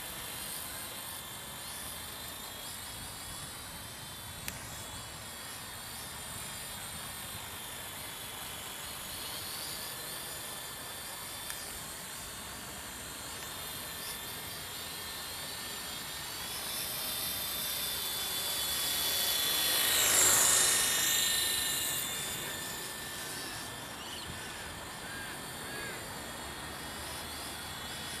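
WLtoys Sky Dancer single-rotor RC helicopter with a flybar, in flight: a steady high-pitched electric motor and rotor buzz. It swells louder about two-thirds of the way through as the helicopter comes close, then fades back.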